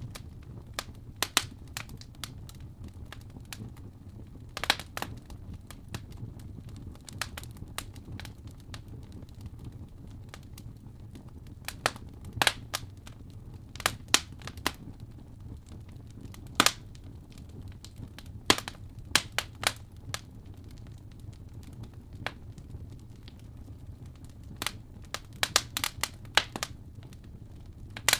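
Fire burning in a fireplace, with sharp crackles and pops at irregular intervals over a steady low rumble.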